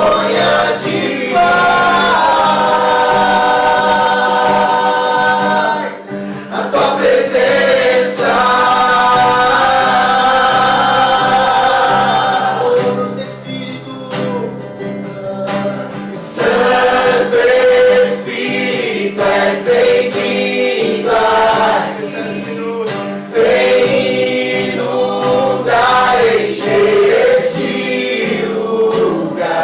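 A small group singing a worship song together to acoustic guitar, with long held notes between shorter phrases.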